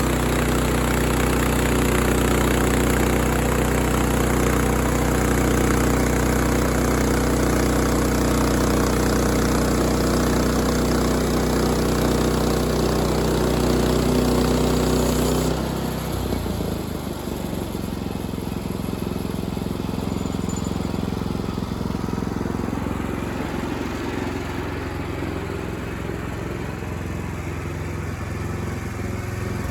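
An engine running steadily. About halfway through, its sound drops a little and the hissing high noise falls away, leaving a lower, rougher run.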